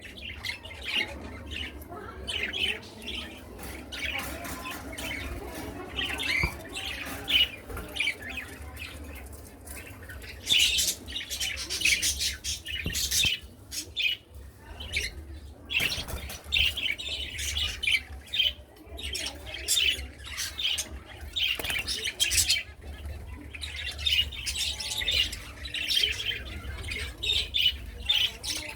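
A flock of small pet birds in an aviary, chirping and squawking constantly, many calling over one another, with a steady low hum underneath.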